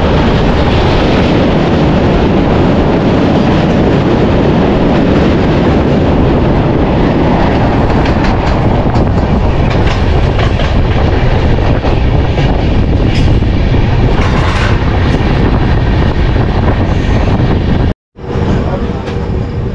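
Passenger train running at speed, heard from aboard: a loud, steady rush of wheel-on-rail and wind noise. It cuts off about 18 seconds in and gives way to a quieter rumble with a steady hum.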